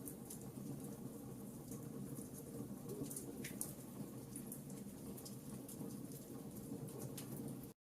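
Campfire burning: a steady low rush from the flames with scattered sharp crackles and pops from the burning wood. The sound cuts out completely for a moment near the end.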